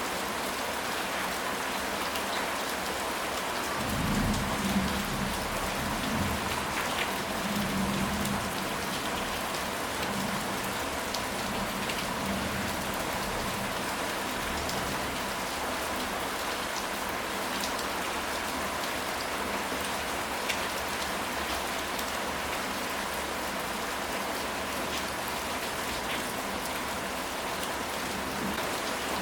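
Steady heavy rain falling on a surface, with a low rumble of distant thunder about four seconds in that fades out over the next few seconds.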